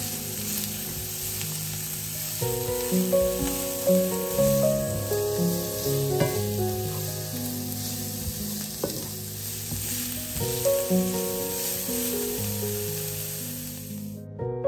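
Diced carrots and onion sizzling as they fry in oil in a pan, stirred with a wooden spatula; the sizzling stops suddenly near the end. Background music plays throughout.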